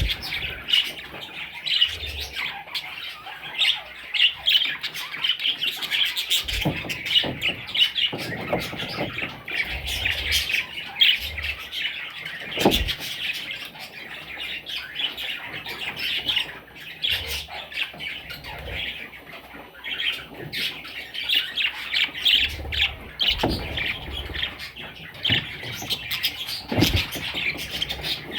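A flock of budgerigars chattering continuously, with quick chirps and squawks overlapping throughout, and a few soft knocks now and then.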